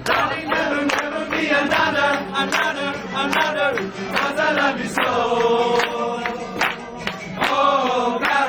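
A group of voices singing a song together in chorus, over a steady beat of sharp strikes.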